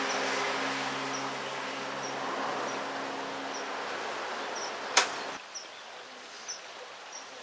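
Outdoor ambience with the steady hum of a passing vehicle's engine fading away over about five seconds, a single sharp click about five seconds in, and short high chirps repeating about twice a second.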